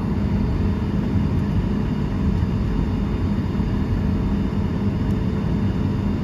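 Steady cabin rumble inside a Boeing 737-800 airliner: engine and air-conditioning noise with a constant low hum.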